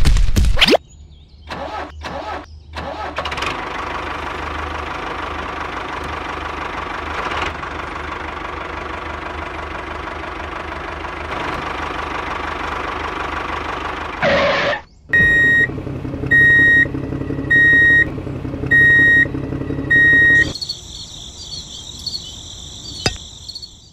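A loud sound cuts off under a second in. A tractor engine starts about two seconds in and runs steadily until about fourteen seconds. It is followed by five evenly spaced electronic beeps about once a second, then a high warbling tone.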